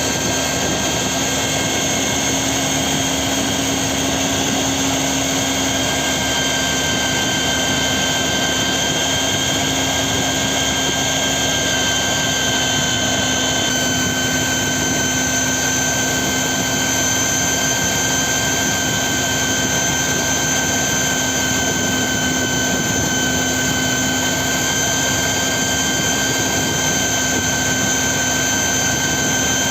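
A machine starts just before and runs steadily and unbroken, a loud hissing noise with a constant high whine.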